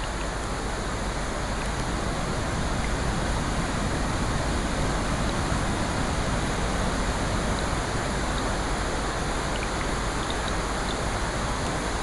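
Steady rushing water noise from a nature-sounds recording, even and unbroken, with a few faint small ticks in the second half.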